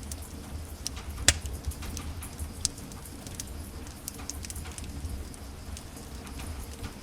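Wood fire in a fireplace crackling, with scattered small pops and a sharp loud pop about a second in, over a low steady rumble.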